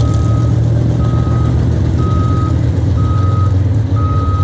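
Vehicle backup alarm beeping in a steady one-tone pattern, about one beep a second, five times, over the loud, steady low rumble of a heavy engine running.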